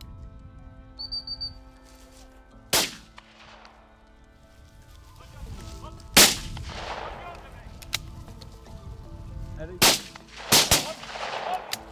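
Five shotgun shots fired at birds, each with a trailing echo. They are spread over several seconds, and the last two come in quick succession.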